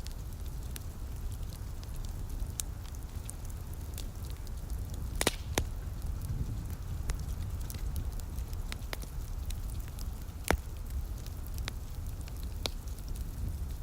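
Wood fire crackling in a fireplace: irregular sharp pops and snaps, a couple of louder pops about five and ten seconds in. Under them runs a steady low rumble.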